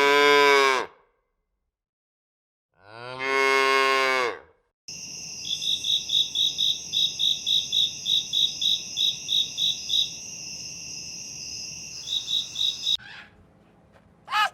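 A cow mooing twice in long, low calls. After an abrupt cut, a high chirping at about four chirps a second runs over a steady hiss, stops, and comes back briefly near the end.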